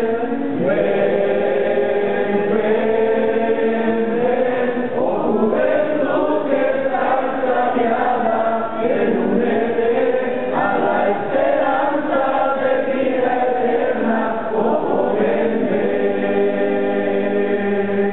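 A group of voices singing a Spanish gospel hymn together, with long held notes.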